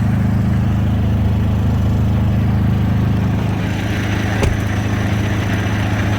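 Semi truck's diesel engine idling steadily, with a single sharp click about four and a half seconds in and a rising hiss just before it.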